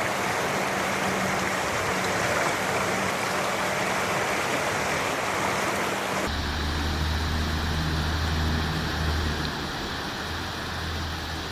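Steady rushing noise of heavy rain and running floodwater. About six seconds in it cuts abruptly to a duller water noise under a low steady hum.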